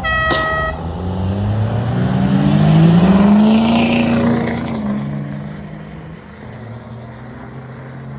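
A horn sounds briefly at the start. Then a vehicle's engine revs hard as it accelerates past, its pitch rising and then dropping away as it fades into the distance.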